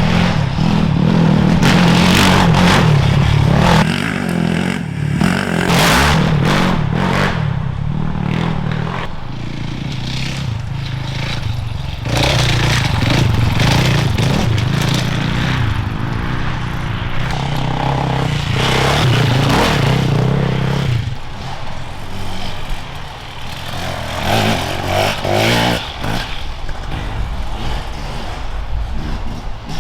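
Off-road enduro motorcycle engines revving, the note stepping up and down as the riders change gear and throttle on and off, with short knocks and scrapes mixed in. After about twenty seconds the engines fall quieter.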